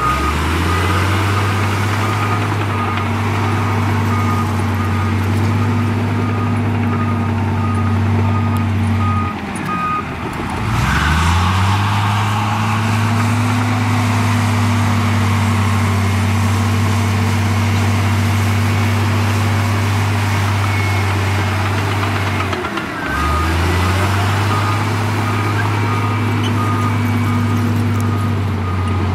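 Heavy diesel earthmoving machinery running at a steady, laboring engine note, with a reversing alarm beeping in the background. The engine sound cuts out and picks up again twice, climbing back up in pitch each time.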